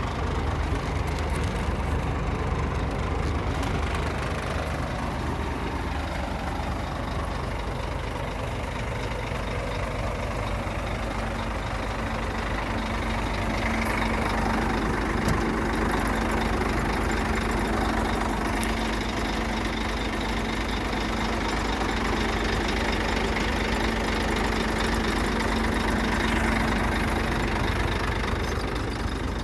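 Scania truck's diesel engine running steadily, with a steady hum that comes in about a third of the way through and stops shortly before the end.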